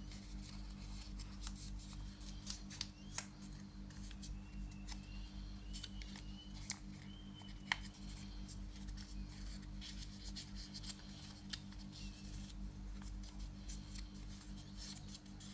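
Origami paper being folded and creased by hand: irregular crinkling with sharp crackles, a few louder snaps, over a steady low hum.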